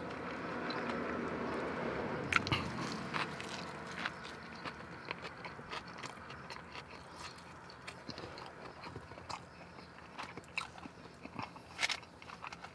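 Close-up eating of a pastrami burger: a bite and then open-mouthed chewing, with scattered short, wet smacking clicks.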